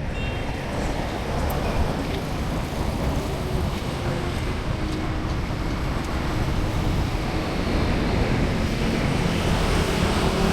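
Street traffic: a steady wash of passing vehicles and engine noise, building slowly louder towards the end.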